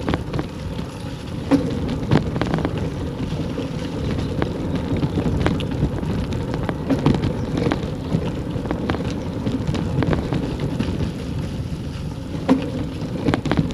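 Wind buffeting the microphone with a steady low rumble, dotted with scattered sharp clicks and knocks.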